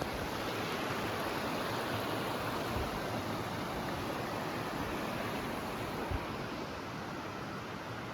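Steady rushing noise that swells a little in the middle, with two faint low thumps.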